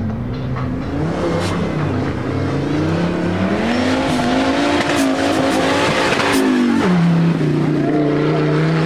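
Off-road race car engine accelerating hard, its pitch climbing for several seconds, dropping sharply about seven seconds in, then holding steady.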